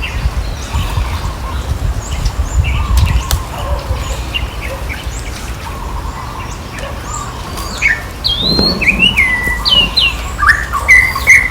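Short, high chirping and squeaking calls, sparse at first and coming thick and fast in the last few seconds, over a low steady rumble.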